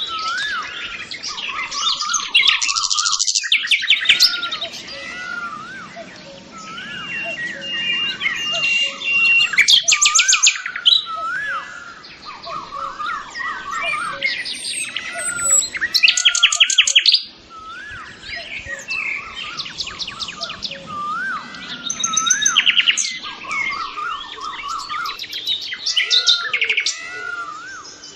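Several birds chirping and singing: a short whistled note that rises and falls, repeated over and over, with a loud fast trill breaking in about every six or seven seconds.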